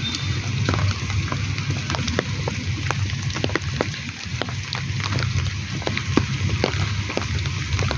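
Steady monsoon rain falling, with a hiss of rain and many separate drops ticking sharply close by at an irregular pace. A low rumble runs underneath.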